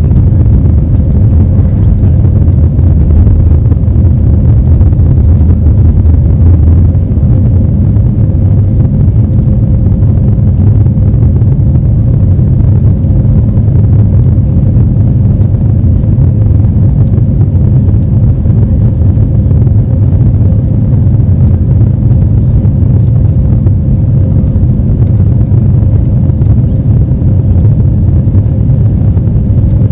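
Airbus A320neo cabin noise heard from a window seat: a loud, steady low rumble of the jet engines and airflow, with a faint thin tone above it.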